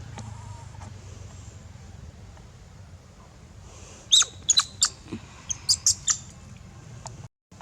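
Baby macaque crying: a quick run of about nine short, high-pitched squeaking cries over two seconds, starting about four seconds in, over a low steady rumble.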